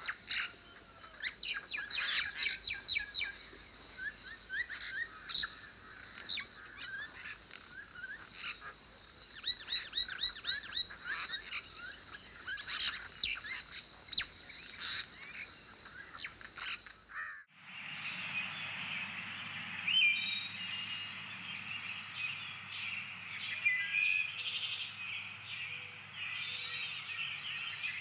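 Many small birds chirping and trilling in a quick, overlapping chorus. About two-thirds of the way through, it cuts abruptly to a different background: a steady high hiss with scattered short bird calls over it.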